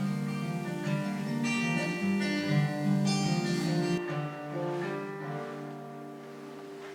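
Acoustic guitar playing the closing bars of a song after the last sung line, then a final chord that rings and fades out over the last few seconds.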